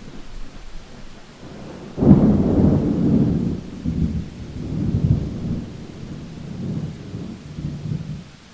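A thunderclap breaks suddenly about two seconds in and rumbles on in several low rolls that slowly fade, over a steady faint hiss of rain.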